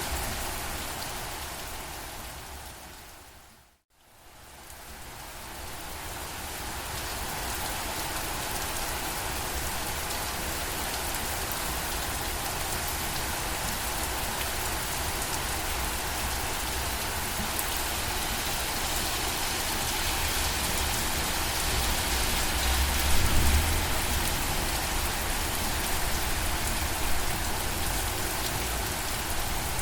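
Steady rain falling and pattering on surfaces. About four seconds in, it fades down to near silence and swells back up over a few seconds. A brief low rumble comes a little past two-thirds of the way through.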